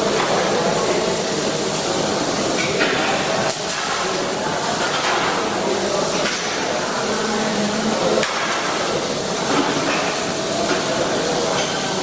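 Welding-shop work noise: a steady hiss with scattered metallic knocks like hammer strikes.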